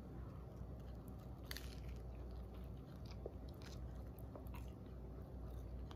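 A person chewing a big mouthful of everything bagel with cream cheese: faint mouth sounds with scattered small clicks.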